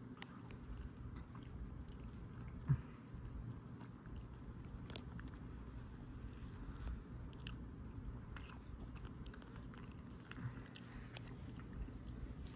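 Faint sounds of a person eating ice cream: soft mouth and chewing noises with scattered small clicks over a low steady hum, and one brief louder sound about three seconds in.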